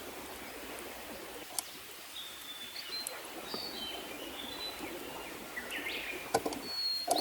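Small birds singing short whistled phrases over a steady rush of stream water, with a couple of light knocks.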